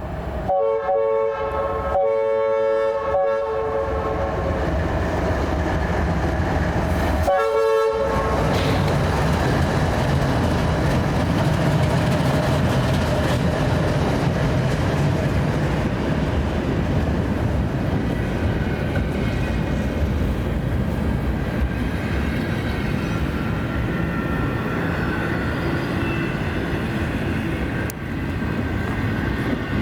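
Leslie RS-5T air horn on a CSX locomotive sounding two long blasts and a short one, the horn clogged and packed with snow. The freight train then runs past with steady rumble and wheel clatter.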